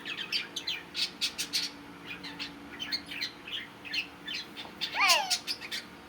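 Pet budgerigars chattering: a run of many short chirps, with one louder call sweeping downward about five seconds in.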